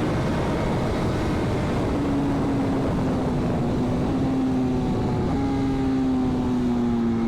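BMW S 1000 RR's inline-four engine running at steady speed under heavy wind rush. Its note drops a step about two seconds in, then sinks slowly.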